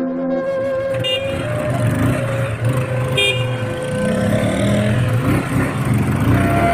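Road traffic with vehicle horns tooting briefly twice, over a steady rumble of engines.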